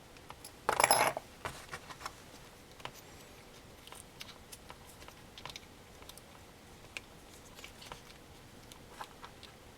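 Small plastic headphone parts and a tool being handled: a short louder clatter about a second in, then scattered light clicks and taps.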